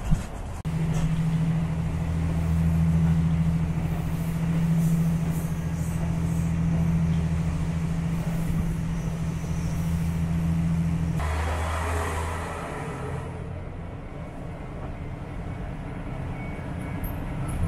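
Diesel railcar engine heard inside the passenger cabin, a steady low drone. About eleven seconds in the engine note drops away with a short burst of noise, and the cabin goes quieter as the train comes up to a small station.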